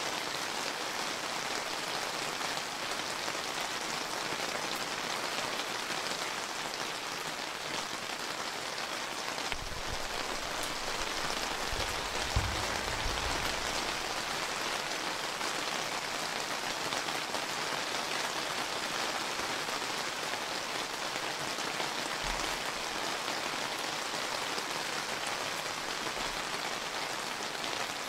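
Steady summer rain pattering down in an even, dense hiss. A low rumble comes in about ten seconds in for a few seconds, with one sharp louder knock in the middle of it, and a brief low thump near the end.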